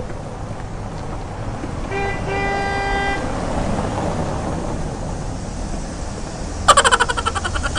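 A horn toots once about two seconds in, one steady note held for about a second, over a steady low hum. Near the end a louder burst of fast pulses sounds for about a second.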